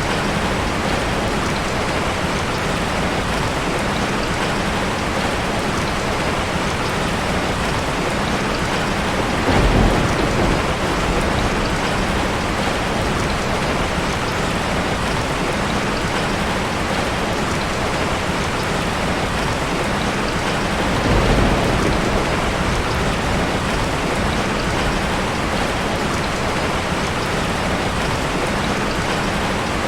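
Steady rain falling on a forest, a dense even hiss, with two short low rumbles about ten and twenty-one seconds in.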